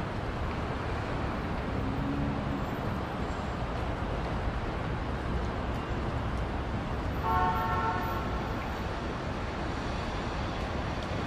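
Steady rain hiss, with a brief pitched tone sounding about seven seconds in.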